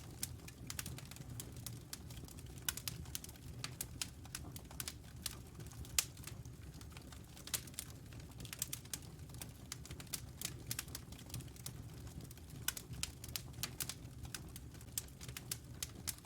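Wood fire crackling in a fireplace: irregular sharp pops and snaps over a steady low rumble of the flames, with one louder pop about six seconds in.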